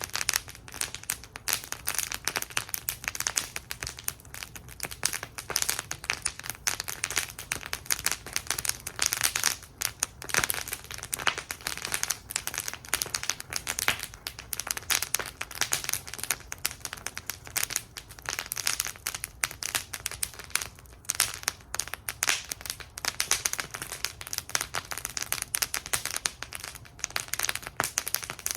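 Wood fire in a fire bowl crackling and popping, a dense run of irregular sharp snaps with no pause.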